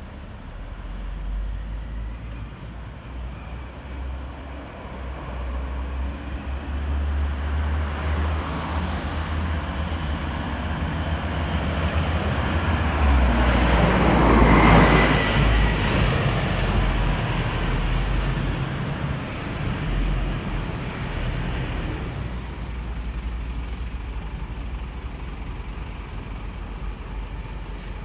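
Scania N230UB city bus with Hispano Habit bodywork driving past, its diesel engine and tyres growing louder to a peak about halfway through, then fading away.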